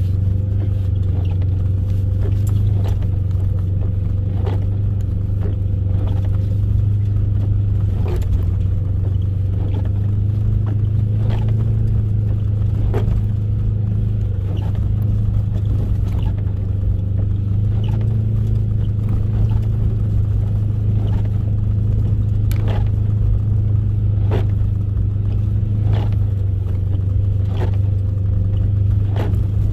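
Off-road vehicle driving with a steady low engine and road drone, with scattered sharp clicks and knocks at irregular intervals.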